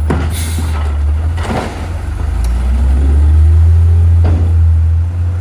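Side-load garbage truck's diesel engine running with a heavy low rumble, with a few sharp clanks and a rising whine in the middle as the truck grows louder.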